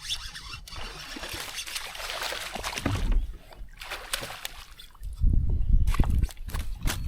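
Water splashing and trickling beside a kayak. About five seconds in, low wind rumble on the microphone takes over.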